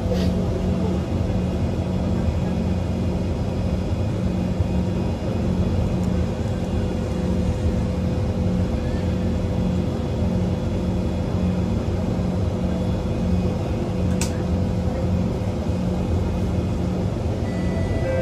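Steady low hum and rumble inside a Kawasaki C151 metro train car standing at a platform with its doors open, its onboard equipment running. A single sharp click about fourteen seconds in.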